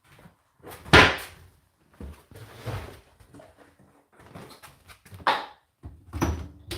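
Irregular clunks, knocks and scraping from objects being handled, the loudest a sharp knock about a second in, with several softer clunks after it.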